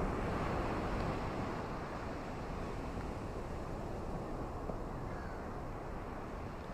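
Ocean surf and rain on a beach: a steady low rushing wash that swells slightly near the start, with a faint bird chirp about five seconds in.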